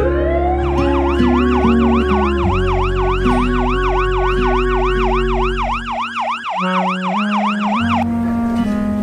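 Emergency-vehicle siren sound effect in a fast yelp, wailing up and down about three to four times a second and cutting off near the end, over background music with sustained bass notes.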